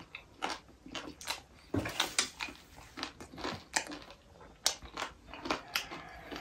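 A person chewing and smacking his lips while eating chicken and rice by hand: an irregular run of short clicks and smacks.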